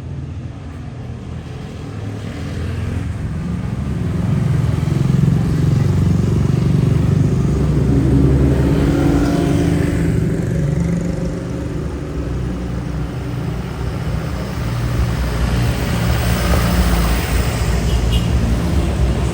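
Street traffic: engines of passing cars and motor scooters, growing louder a few seconds in, easing off midway, then building again near the end.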